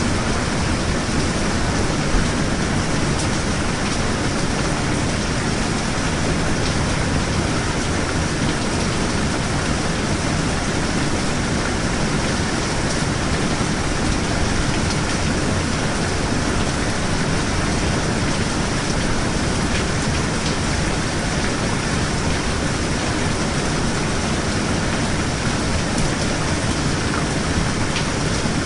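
Steady heavy rain, a continuous even hiss with a few faint drop ticks.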